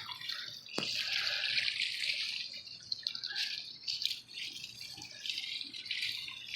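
Garden hose water spraying onto the fins and metal casing of a central air conditioner's outdoor condenser unit, rinsing dirt out of the coil: a steady hiss with a light rattle, and one sharp knock just under a second in.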